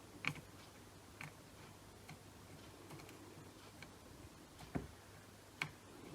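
Faint, irregular light ticks and taps, about five in a few seconds, from a soldering iron and hand tools working along the legs of a processor chip being soldered onto a circuit board.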